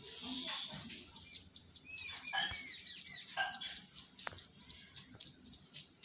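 Birds chirping: a quick run of short, arching high chirps for about a second and a half, starting about two seconds in, with a few scattered chirps after.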